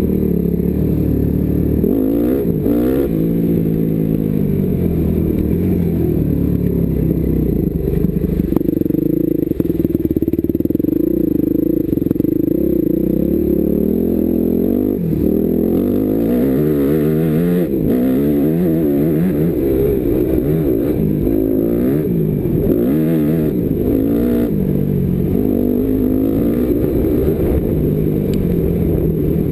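Motocross bike engine heard from onboard, revving up and down again and again as the rider opens and closes the throttle and shifts, with a stretch of steady high revs about ten seconds in.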